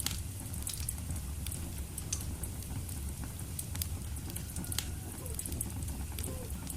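Wood fire burning in a fireplace: irregular sharp crackles and pops over a steady low rumble of the flames, with a few faint short whistles in the second half.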